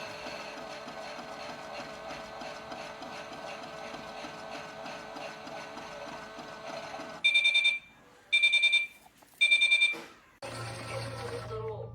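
Theo Klein Miele toy washing machine running: a steady whir with a regular rattle from its motor and drum, then about seven seconds in three loud, rapidly pulsing electronic beeps. A low steady hum comes on near the end.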